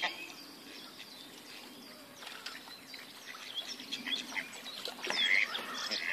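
Birds calling in short chirps and whistles over a faint steady background hum, sparse at first and more frequent in the last two seconds.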